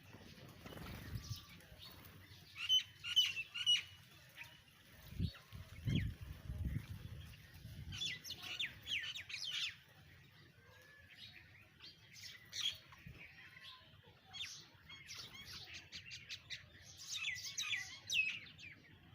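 Several small birds chirping and calling in quick, irregular bursts of short notes, with a few low thuds about five to seven seconds in.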